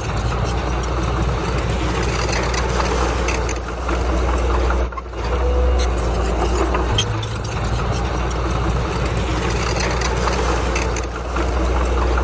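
Diesel engine of heavy earthmoving machinery running steadily, with a brief break about five seconds in.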